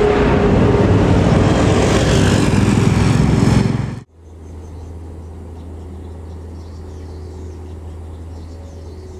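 A heavy road vehicle, bus or truck, passing close at highway speed with loud tyre and engine noise, cut off abruptly about four seconds in. After that a quieter steady low engine hum and road noise.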